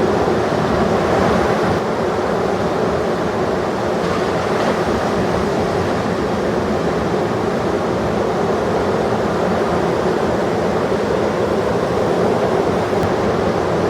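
Heavy ocean surf breaking in a steady, unbroken wash of noise, with wind buffeting the microphone.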